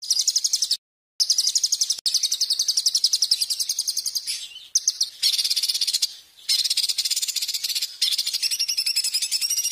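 A small songbird's rapid, high-pitched trill, many notes a second, repeated in long runs; the recording is edited, with sudden silent gaps about a second in and short breaks in the middle.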